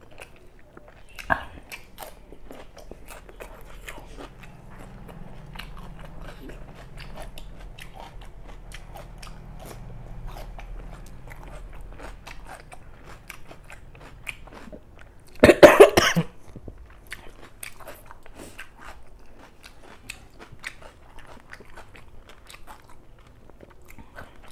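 Close-miked eating sounds of a person chewing a mouthful of rice and curry eaten by hand: many small wet clicks and smacks. About two-thirds of the way through, one brief loud burst stands out.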